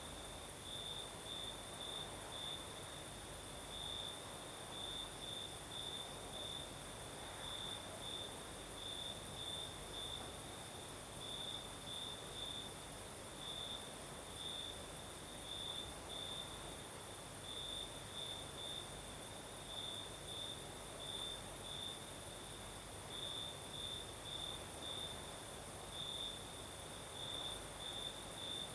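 Crickets singing at night: a loud chirping near the top of the range comes in uneven runs of pulses over a steady, very high insect trill. A soft night breeze hisses underneath.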